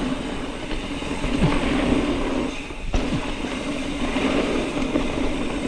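Mountain bike coasting on a dirt trail: the rear freehub's ratchet buzzes steadily over tyre rumble and wind noise. The buzz drops out briefly about three seconds in, with a sharp click, then resumes.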